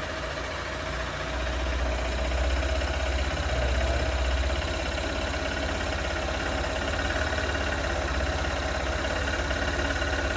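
Motorcycle engine idling just after a cold start, a little louder for the first few seconds and then settling into a steady idle.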